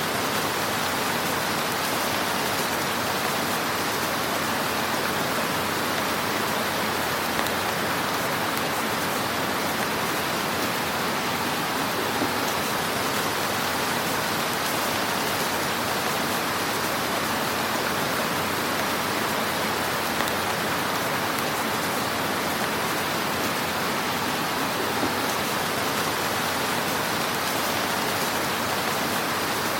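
Wood fire crackling in a fireplace: a steady hiss with faint small pops throughout, and a couple of slightly louder pops about twelve and twenty seconds in.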